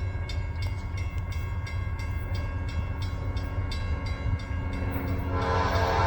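Two CSX CM44 rebuilt GE diesel-electric locomotives working uphill under load, a steady low rumble, with a repeated ding about three times a second. About five seconds in the locomotive's multi-note air horn starts sounding, louder than the rumble.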